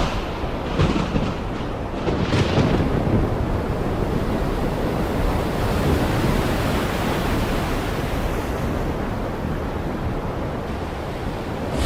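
Heavy rain pouring steadily, a dense hiss with a deep low rumble underneath. The downpour swells briefly about one second and two and a half seconds in.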